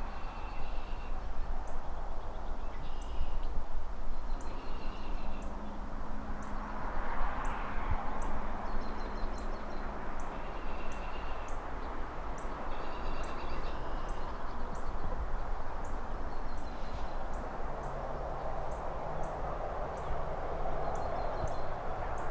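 Outdoor city ambience: a steady rumble of distant traffic, with a swell of noise as cars pass about seven seconds in and again near the end. Over it, birds call every second or two in short chirps, along with quick high ticks.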